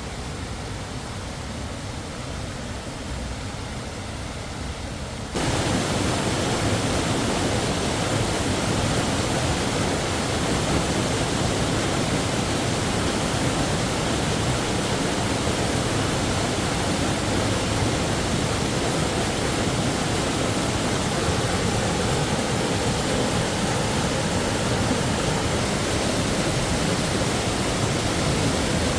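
Waterfall rushing, a steady hiss of falling water that becomes suddenly louder and fuller about five seconds in.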